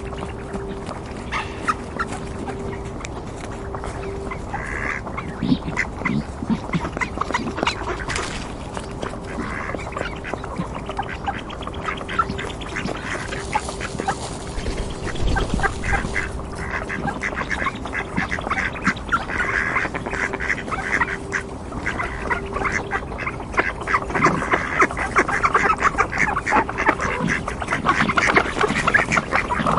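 A flock of ducks quacking, many short calls overlapping without a break. It grows busier and louder in the last few seconds.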